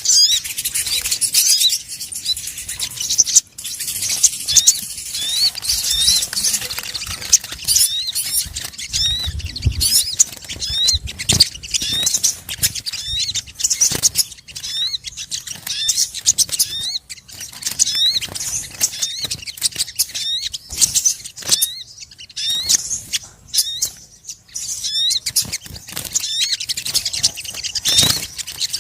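Bird-lure recording of small songbirds: a dense, continuous stream of high, quick chirps and twitters, many of them short upward-sweeping notes repeated over and over, with scattered sharp clicks. Used as a lure call to draw sogon and similar small birds in for trapping.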